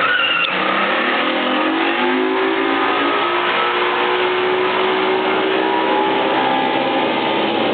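Boat engine speeding up: its pitch climbs over the first few seconds, then holds nearly steady at speed over a rushing noise.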